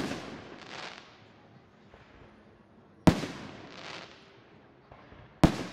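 Aerial firework shells bursting: three sharp bangs, at the start, about three seconds in and near the end, each trailing off over about a second.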